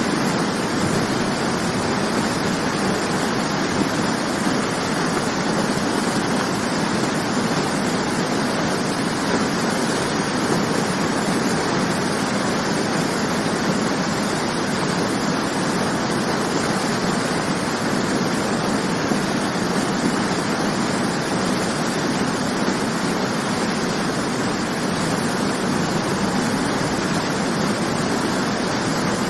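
Waterfall: a steady, unbroken rush of falling water, with no change in level.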